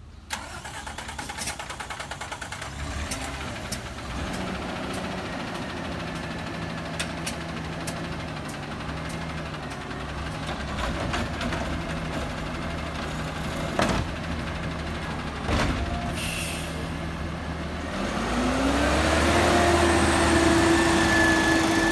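CNG garbage truck engine running steadily, with scattered clicks and knocks and a short burst of air hiss about three-quarters of the way in. Near the end the engine speeds up, its pitch rising and then holding higher and louder.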